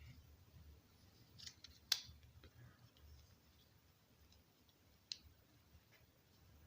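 Faint clicks and taps of small chainsaw parts being handled while a carburetor is fitted on, with a sharper click about two seconds in and another about five seconds in.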